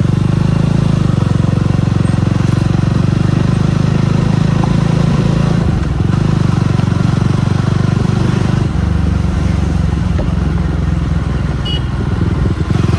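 Jawa 42 Bobber's single-cylinder engine running under way. Its note changes about six seconds in and again just before nine seconds.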